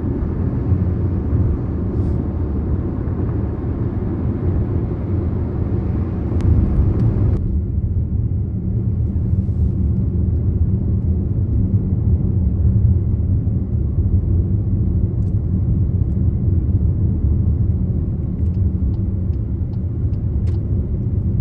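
Steady low rumble of road and engine noise heard from inside a moving Volkswagen car. The lighter hiss on top drops away suddenly about seven seconds in, leaving the deep rumble.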